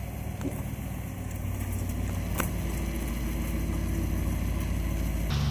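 Engine idling steadily, with a sharp click a couple of seconds in and an abrupt change in the sound near the end.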